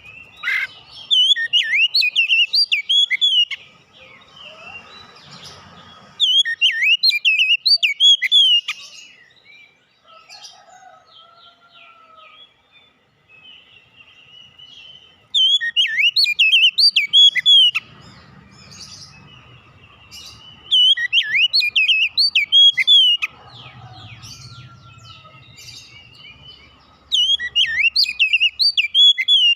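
Oriental magpie-robin (kacer) singing: five loud phrases of fast, varied whistles, each about two and a half seconds long, with pauses between them that hold fainter calls.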